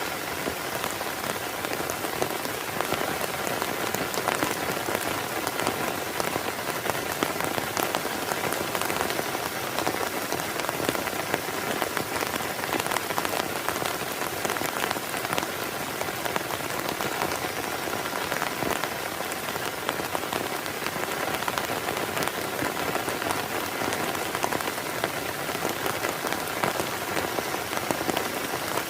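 Heavy rain falling steadily: a dense, even patter of countless drop impacts with no let-up.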